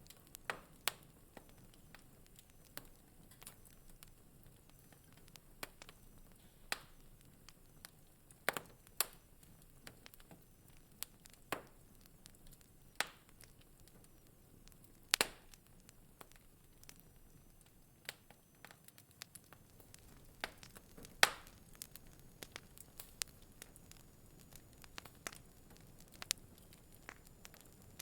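Wood fire crackling in a fireplace: irregular sharp pops and snaps over a faint hiss, with a few louder pops about halfway through and again a little later.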